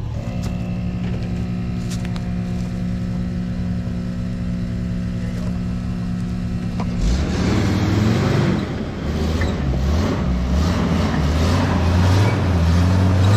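Jeep Wrangler engine running steadily at low revs, then from about seven seconds in revving up and down, louder, as the Jeep climbs a steep rutted dirt bank.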